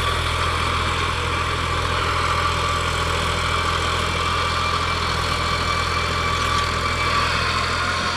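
New Holland 3600-series tractor's diesel engine running steadily at constant speed.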